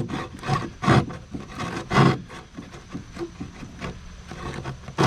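Drywall jab saw cutting through sheetrock. A few strong sawing strokes, about one a second at first, then softer scraping before one more hard stroke near the end.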